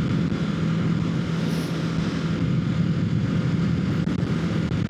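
2025 Kawasaki Ninja 650's parallel-twin engine running steadily at cruising speed, with wind rushing past.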